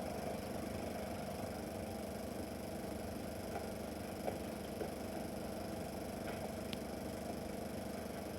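Steady hum and hiss from a Super 8 film's sound track playing with no dialogue, with a few faint clicks.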